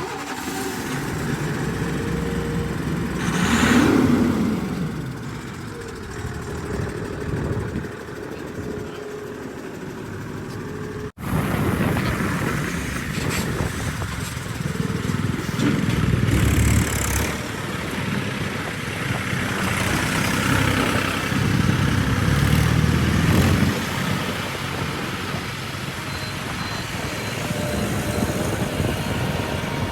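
Heavy diesel engines of a JCB 3DX backhoe loader and tractors running at work as mud is loaded. The engines rev up and down, with a rising rev about four seconds in, and the sound breaks off briefly about eleven seconds in.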